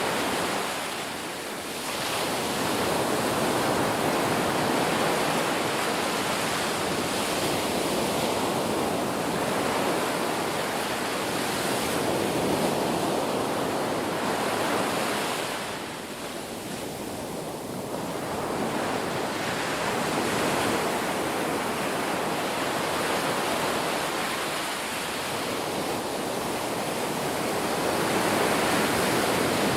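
Ocean surf washing in a continuous rush, swelling and easing, with brief lulls about a second and a half in and again around sixteen seconds.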